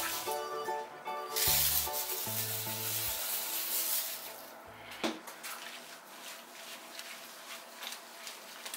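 Hands rubbing and scrubbing a wet cat's fur during a shampoo bath, a scratchy hiss that is loudest for a few seconds, then softer rubbing. Background music plays over the first half.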